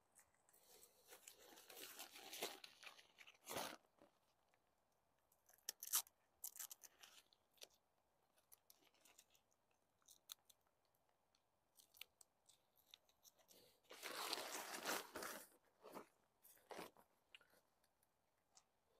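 Faint, intermittent rustling and crackling of a tent's fly-sheet fabric and its Velcro tabs being wrapped around the pole and fastened, with a few sharp clicks and ripping sounds; the longest bursts come about a second in and again about fourteen seconds in.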